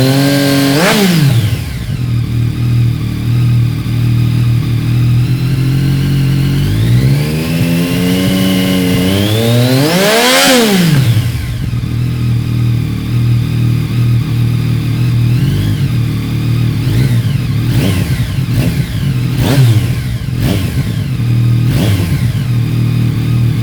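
Yamaha MT-09 SP's three-cylinder engine breathing through an aftermarket Arrow Thunder exhaust, idling cold and being revved in place. The revs fall back just after the start, climb slowly to a peak about halfway through and drop again, then come several short, sharp throttle blips near the end.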